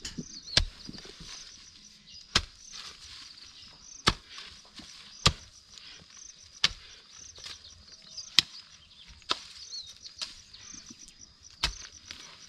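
Hand hoe chopping into wet garden soil to break it up for planting: about eight sharp strikes, roughly one every one and a half seconds.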